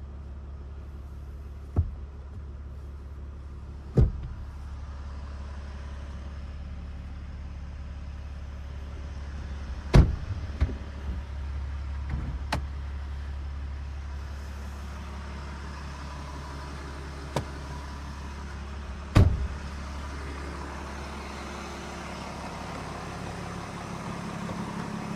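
Ram 3500's 6.7 L Cummins inline-six turbo diesel idling with a steady low hum. Several sharp knocks and thumps cut through it, the loudest about ten and nineteen seconds in.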